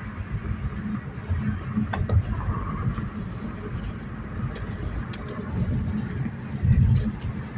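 Ford Mustang's engine running with a loud, low, uneven exhaust rumble that swells briefly near the end.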